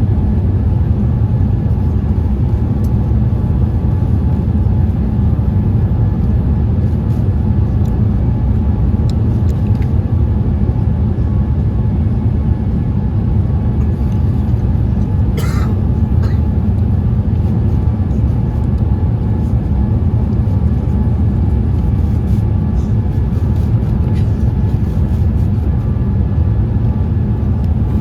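Steady low roar of a Boeing 787-8's engines and airflow heard inside the passenger cabin in flight, with one brief high sound about halfway through.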